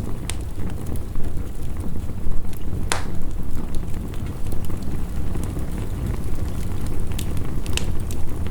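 Wood fire crackling, with a few sharp pops (the loudest about three seconds in), over a steady low rumble of heavy rain.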